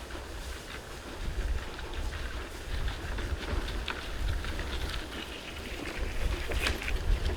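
Strong wind buffeting the microphone as a steady low rumble, with dry rustling and crackling that gets busier in the second half.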